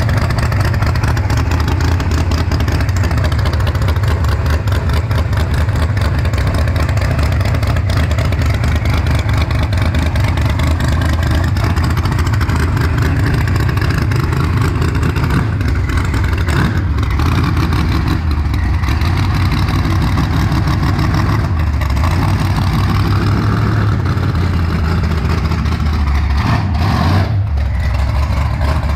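Procharger-supercharged Chevy Nova drag car's V8 running loud at a choppy idle, creeping at low speed with small blips of throttle.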